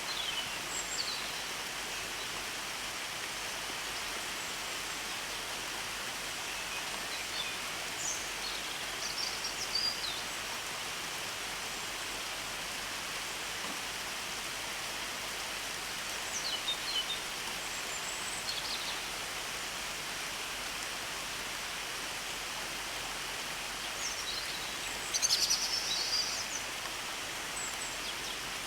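Steady rain falling, with short bird chirps and calls now and then; the loudest cluster of chirps comes near the end.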